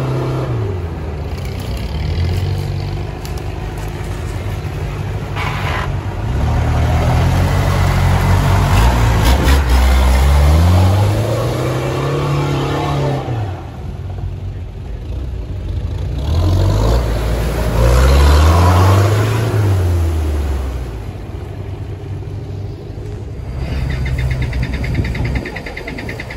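Off-road 4x4 engine working hard through deep mud and water, its revs rising and falling several times as the driver works the throttle.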